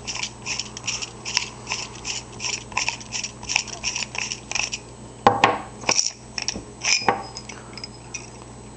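Emitter section of a lightsaber hilt being unscrewed: the threads give a rapid run of scratchy ticks, about three a second. It is followed by a few louder knocks and clicks as the emitter comes free and is handled.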